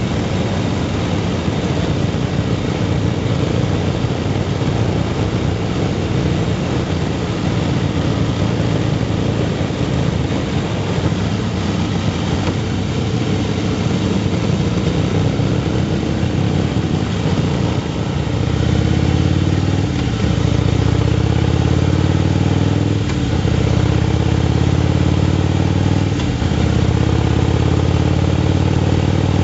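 Motorcycle engine running while riding, over a steady hiss. It grows louder about two-thirds of the way through, and its pitch rises near the end as it accelerates.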